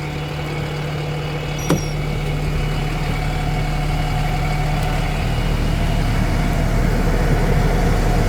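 Peterbilt truck's diesel engine idling with a steady hum. A sharp click comes about two seconds in, and then the rush of the air-conditioning blower builds steadily louder.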